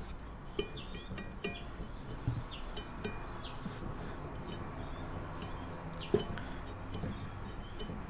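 A scattered series of light, sharp clinks, about a dozen, each with a brief high ring, over a faint low background.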